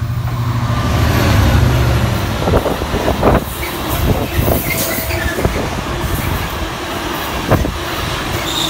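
A diesel train passing close by: its engine hum peaks in the first couple of seconds, then the rumble of wheels with sharp knocks over rail joints and a few brief wheel squeals.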